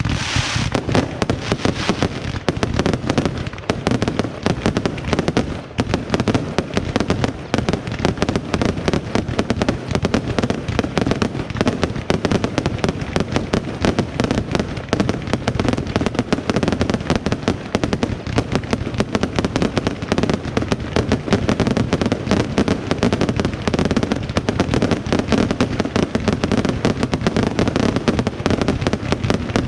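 A fireworks finale: many pyrotechnic batteries firing together in a dense, unbroken volley of bangs and crackles, many shots a second.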